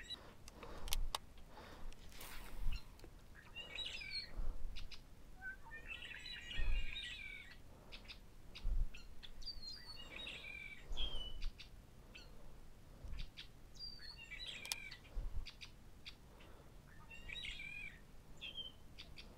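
A bird singing short chirping phrases, about five in all, spaced every few seconds, with scattered faint clicks and low knocks in between.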